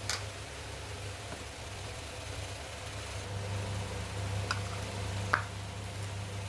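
Microwave oven running, with a steady low electrical hum and fan noise, and a few light clicks.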